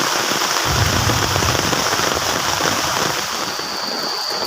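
Heavy rain falling, a dense steady hiss, with a brief low rumble about a second in. A thin, steady high whine comes in near the end.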